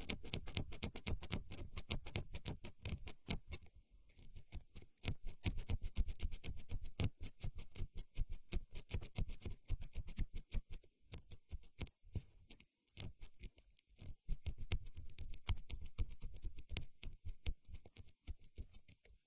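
Close-miked ASMR trigger sounds: rapid, crisp clicks and taps right at the microphone, many per second, with short lulls about four seconds in and again around the middle.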